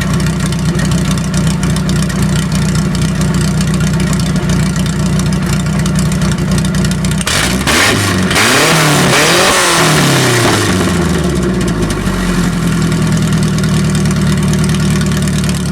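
Ford Ranger's 2.3-litre four-cylinder engine idling through a straight pipe with no muffler, catalytic converter or tailpipe. About seven seconds in it is revved once: the pitch climbs and falls back over a few seconds, then settles to idle again.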